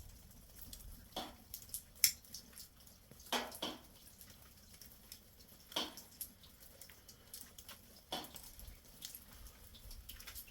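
Water dripping: single drops plinking one at a time, at irregular gaps of about one to two seconds.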